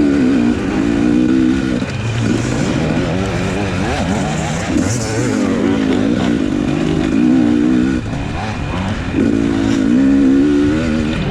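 Off-road race motorcycle engine in the 250 class, heard on board, revving hard and dropping off again several times as the rider works the throttle and gears, with three loud stretches of high revs.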